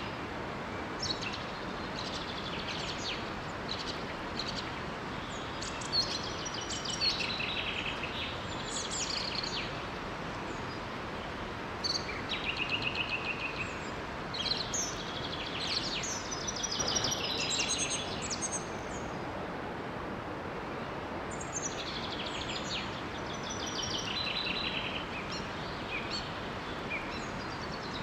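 Songbirds chirping and trilling in clusters over the steady rush of a small waterfall, the birds falling quiet for a few seconds past the middle.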